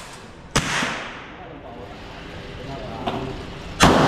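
Two gunshots at a shooting range, about three seconds apart, each followed by a long echoing decay. A fainter crack sounds just before the second shot.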